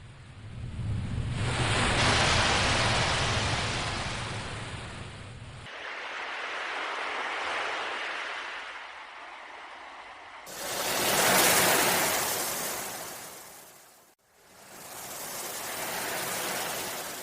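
Ocean waves breaking and washing in, swelling and fading in about four surges, the loudest about two seconds in and again about eleven seconds in. A low rumble runs under the first surge and stops abruptly about six seconds in.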